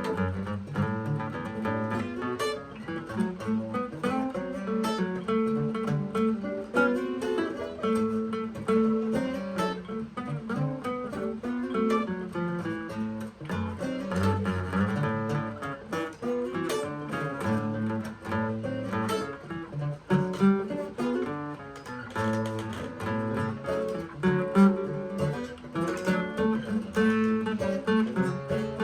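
Acoustic guitar played solo, a busy run of plucked and strummed notes over a repeating bass line.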